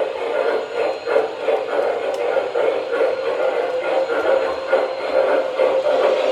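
O scale model steam locomotive with a Proto-Sound 2 sound system running on the layout, its electronic steam chuff beating a few times a second over the running noise of the train.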